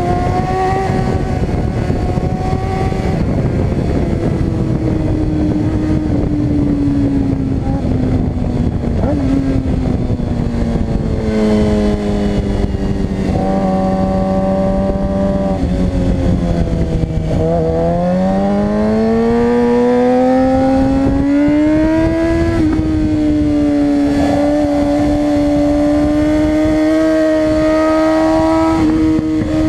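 Suzuki GSX-R600 inline-four sport-bike engine running hard on a racetrack. Its pitch sinks over the first half and is lowest just past the middle. It then climbs steadily as the bike accelerates, and a gear change comes a few seconds later, after which the note holds steady.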